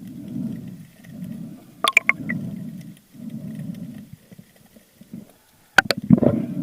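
Underwater recording with rhythmic muffled swishes of water moving, about one a second, and two brief sets of sharp clicks, about two seconds in and near the end.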